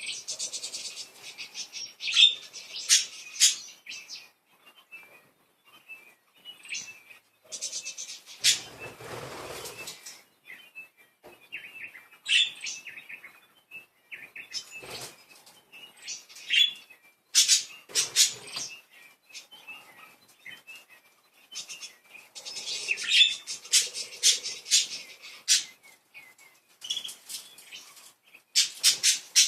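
Pet budgerigars chirping and chattering in irregular bursts of sharp, high chirps and warbles.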